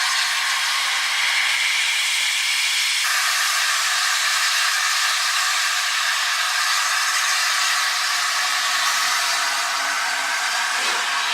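Steam locomotive letting off steam: a loud, steady hiss with no low rumble, its tone shifting slightly about three seconds in.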